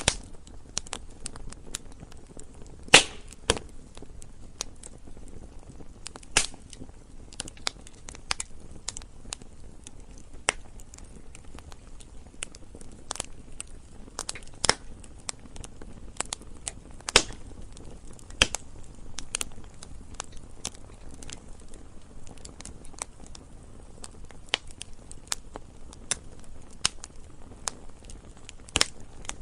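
Wood fire crackling and popping: irregular sharp snaps over a soft steady hiss, with a loud pop about three seconds in and several more scattered through.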